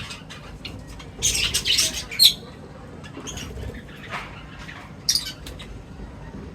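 Birds feeding and giving short, harsh chirps and squawks. A quick cluster of calls comes a little over a second in, then single calls every second or so.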